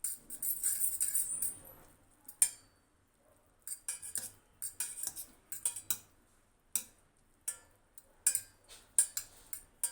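A utensil stirring spaghetti in a pan, scraping and knocking against the pan. There is a dense stretch of scraping at first, then after a pause a run of short, sharp strokes.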